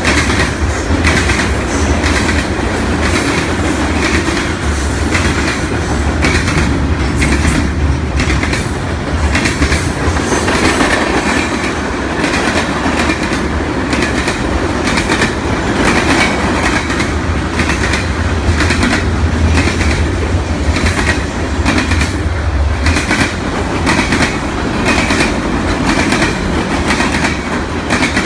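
Freight cars of a long train rolling past, steel wheels clicking over the rail joints with a steady low rumble.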